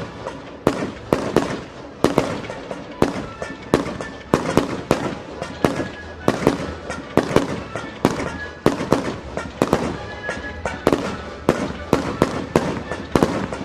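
Fireworks going off in a rapid, continuous barrage of sharp bangs, roughly two to three a second, from mortar-fired shells.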